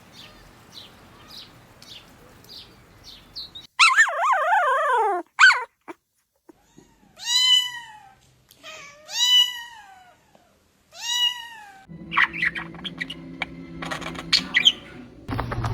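Cat meowing three times, each a long call that rises and falls in pitch, after a loud wavering call a few seconds in.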